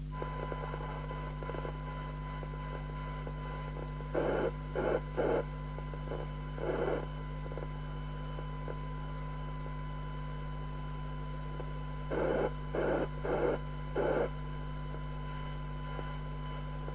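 A steady, high single-pitched test tone from the CB radio's receiver, fed by a signal generator. It switches on at the start over a low mains hum. Two clusters of short, louder bursts interrupt it, about four seconds in and again about twelve seconds in.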